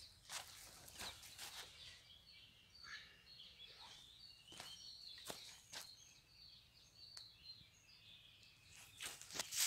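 Faint bird chirps in the background, short high calls repeated many times, with scattered clicks and rustles and a louder rustling near the end.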